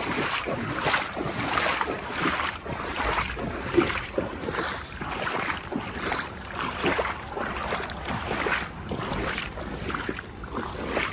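Legs wading through shin- to knee-deep floodwater, one swish and slosh with each stride, about one and a half strides a second.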